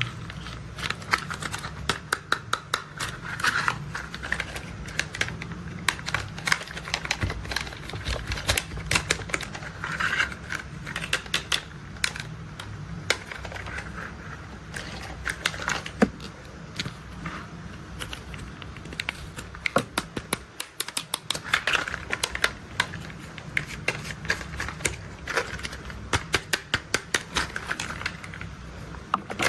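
Plastic toy construction vehicles being handled, giving quick runs of sharp clicks, over a steady low rumble.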